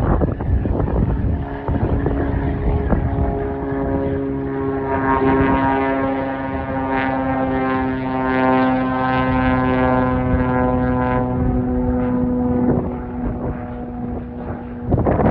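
A Cessna 180K Skywagon's six-cylinder Continental O-470 engine and propeller at takeoff power: a steady, droning note that swells and then fades again. Wind rumbles on the microphone at the start and near the end.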